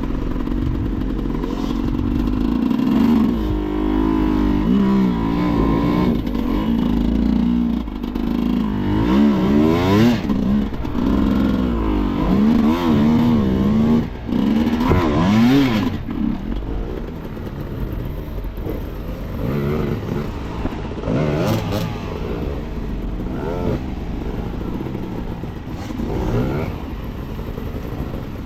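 Enduro motorcycle engine revving hard and unevenly, its pitch rising and falling again and again through the first half. After that it runs at lower revs with a few short blips.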